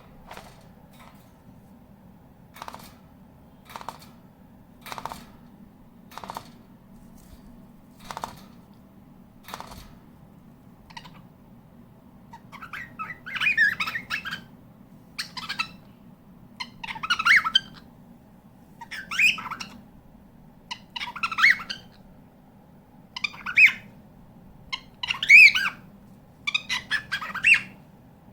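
Cockatiel calling: faint short, sharp chirps about once a second, then, about halfway through, louder harsh squawks repeated roughly every two seconds.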